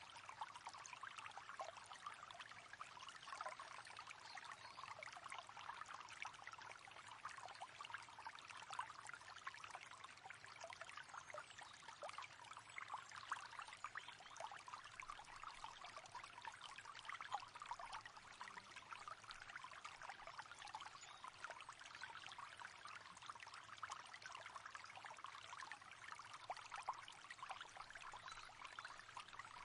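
River water flowing and babbling steadily and faintly, with a constant trickling and splashing texture.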